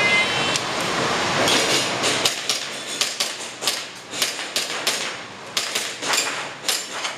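An electronic shot timer gives a short beep right at the start. About two seconds later a string of sharp airsoft pistol shots follows, irregularly spaced at roughly two or three a second, as a shooter runs a timed IPSC stage.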